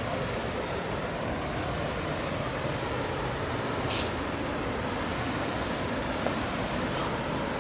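Steady rushing noise of a small waterfall blended with traffic from a highway close by. A single brief sharp tick about four seconds in.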